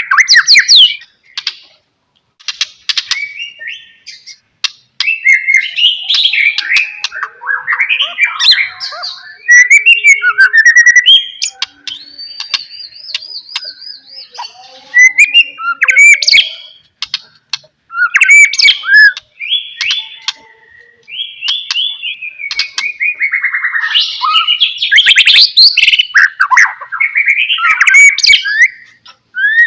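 White-rumped shama (murai batu) singing in full voice: a long run of varied whistled phrases, fast glides and sharp clicking notes, broken by short pauses, with a high wavering trill around the middle.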